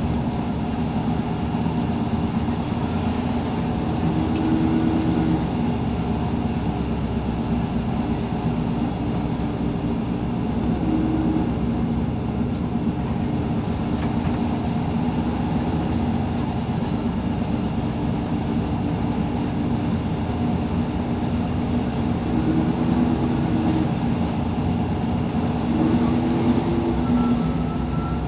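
Steady running noise heard inside the cabin of a Class 158 diesel multiple unit on the move: a constant rumble of the train and its wheels on the rails, with a low hum that swells briefly a few times.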